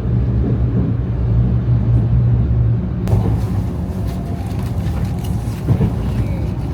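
Shinkansen bullet train running at speed, heard from inside the passenger car: a steady low rumble with a hum. About three seconds in it turns rougher and brighter as a hiss of rushing air and rail noise joins it.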